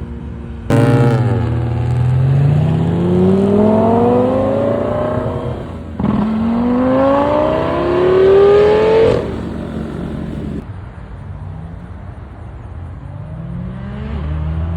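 A car engine starts loud and accelerates hard about a second in, its pitch rising steadily through one gear. It shifts up near the six-second mark and rises again through the next gear, then drops away to a quieter running sound.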